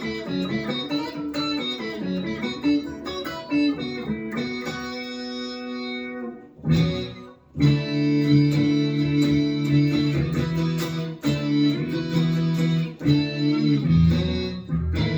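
Electric guitar played through a Boss SY-200 guitar synthesizer pedal on its Fifth Lead preset, giving a synth lead voice. A run of quick notes, a brief break about six and a half seconds in, then longer held notes.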